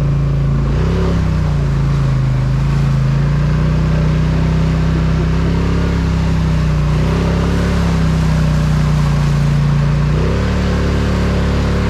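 Polaris Sportsman ATV engine pulling under load through a mud run. Its pitch dips and rises a few times with the throttle and steps up near the end, over a steady hiss.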